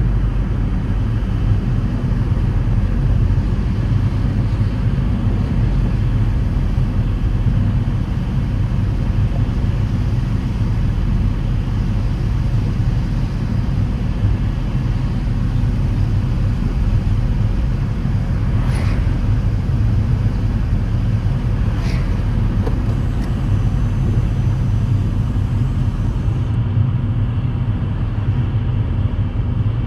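A car being driven: a steady low rumble of engine and road noise that holds even throughout. Two faint, brief higher sounds come about two-thirds of the way through.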